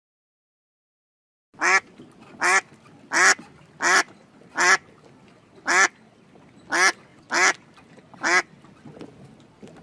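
A duck quacking: a steady series of about nine loud quacks, roughly one every three-quarters of a second, starting about a second and a half in.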